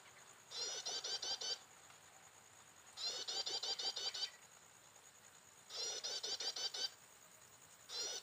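A prinia (ciblek) singing: a phrase of about seven quick, identical, rising high notes, repeated four times at steady intervals of about two and a half seconds.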